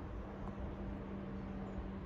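A train's steady low hum over a low rumble, with no sudden events.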